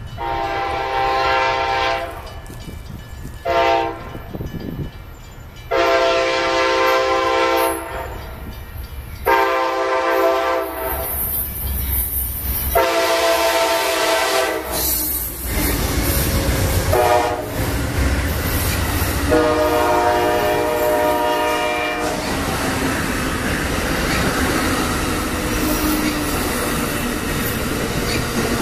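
Passenger train's locomotive air horn sounding a series of about seven blasts, long and short, as the train approaches. Then the low rumble and wheel clatter of bilevel passenger cars rolling past.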